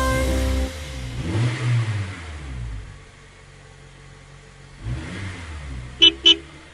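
Cartoon bus engine sound effect revving up and down as the music ends, then two short horn beeps near the end.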